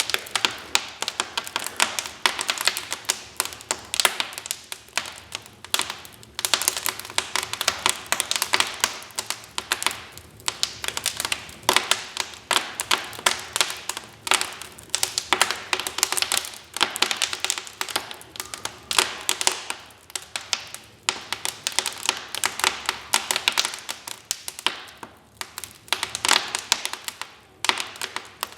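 Wood fire in a fireplace crackling, with dense, irregular pops and snaps throughout.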